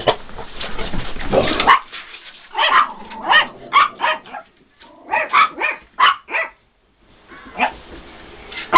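Dog barking at play: a rising rush of noise over the first couple of seconds, then a quick run of short barks, a few a second, and two more barks near the end.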